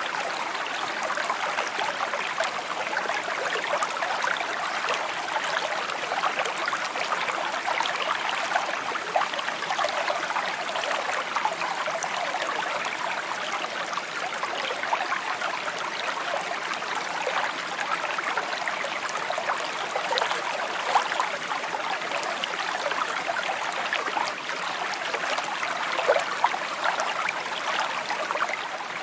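A shallow brook babbling and trickling over stones, a steady bright burble with small splashes flickering through it.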